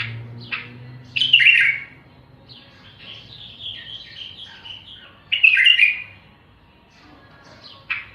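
A songbird singing in short phrases of chirps and buzzy trills, with the loudest bursts about a second and a half in and again about five and a half seconds in.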